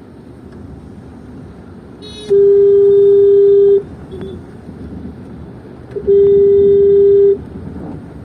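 Vehicle horn giving two long honks, each about a second and a half, over the steady noise of traffic.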